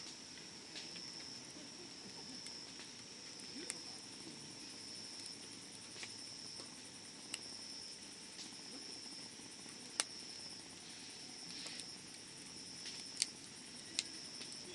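Wood campfire crackling, with about ten scattered sharp pops; the loudest comes about ten seconds in and two more come close together near the end. A steady high insect trill runs beneath the fire.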